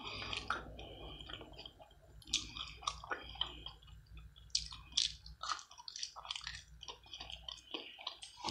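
A person chewing french fries close to the microphone: quiet, irregular wet smacks and mouth clicks.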